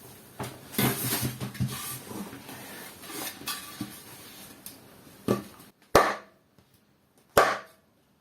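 An Opel C20XE hydraulic lifter, wrapped in an old belt, being struck to knock it apart for cleaning. Light clattering knocks, then two hard blows about a second and a half apart, each with a short ring.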